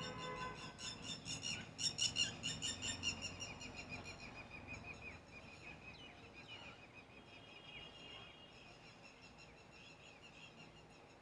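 Small birds chirping in rapid runs of short, high notes. The chirping is loudest for the first few seconds, then grows fainter.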